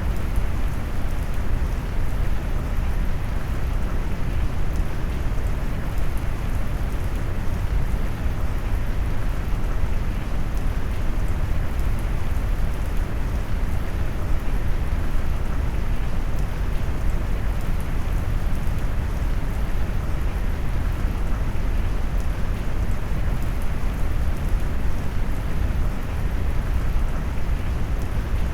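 Steady, deep rain noise: a dense, even hiss of rain with its weight in the low end, blended with brown noise and unchanging throughout.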